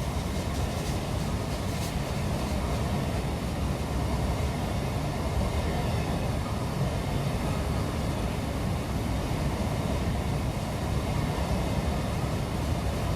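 A train rolling past: a steady rumble of rail cars' wheels on the track.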